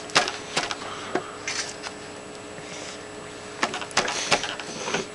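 Scattered light knocks and taps from a toddler handling his cake and plate on a table, a few near the start and a cluster of them near the end.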